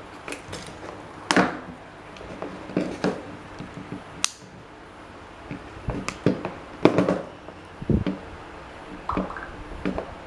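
Scattered clicks, knocks and short scrapes of small hard parts being handled and fitted, irregular strikes with a louder scrape about a second and a half in and a sharp high click about four seconds in.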